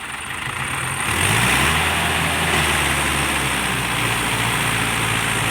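Heavy diesel engine running, revving up about a second in and then holding at higher revs, as during towing in wet soil.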